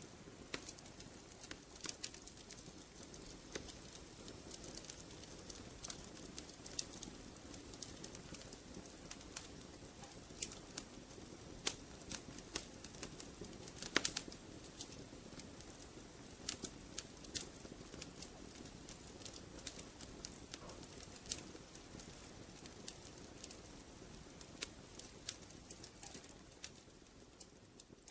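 Wood fire crackling in a fireplace: irregular sharp pops and snaps, one louder snap about halfway through, over a soft steady hiss of the flames.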